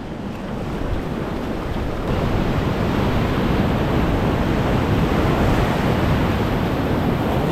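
Ocean surf washing onto a beach, a steady rushing noise that builds a little over the first couple of seconds, with wind rumbling on the microphone.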